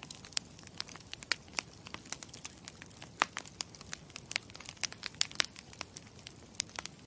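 Campfire crackling: irregular sharp pops and snaps, several a second, over a low steady hiss.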